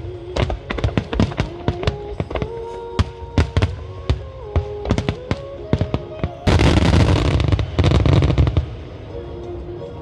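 Fireworks shells bursting in quick succession, several sharp bangs a second, over music from the show's loudspeakers. About six and a half seconds in comes a dense, loud barrage of bangs and crackle lasting about two seconds. Then the bangs stop and the music carries on alone.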